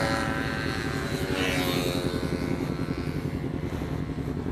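A motor vehicle engine running steadily, with a fast, even low pulsing.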